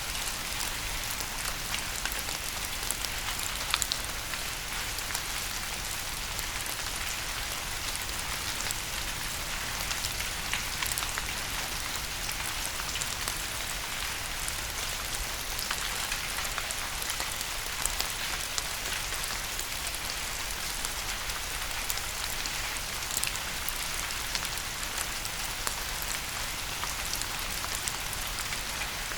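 Steady rain falling, a dense hiss with individual drops ticking through it and a few sharper drop hits about four and eleven seconds in.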